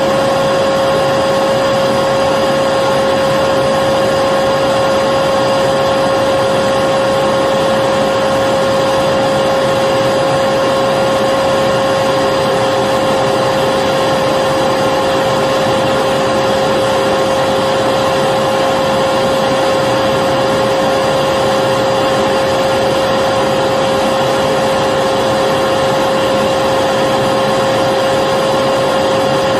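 Electric vacuum cleaner running steadily: an even rushing of air with a constant high whine from the motor, no change in speed.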